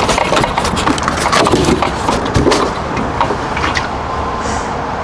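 A run of knocks, clunks and scraping from the removed RV water heater being handled and turned over.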